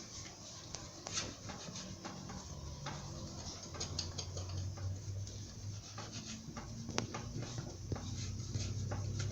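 Sponge rubbing over a fireplace's ceramic glass, with scattered light scrapes and clicks. A low steady hum builds toward the end.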